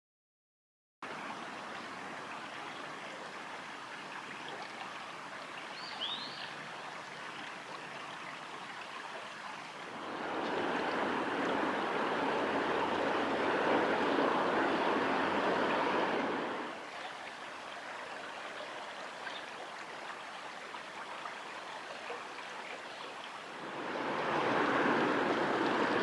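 Steady rush of flowing river water, with two louder stretches of rushing noise lasting several seconds, one midway and one near the end. A single short high chirp comes about six seconds in.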